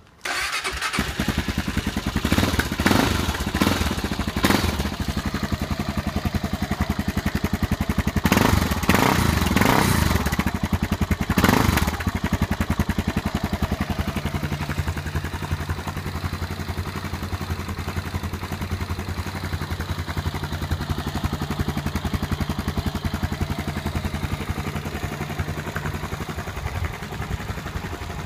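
Honda XR400's air-cooled single-cylinder four-stroke engine through a Delta slip-on muffler, starting up suddenly and then being blipped several times over the first twelve seconds. It then settles into a steady idle.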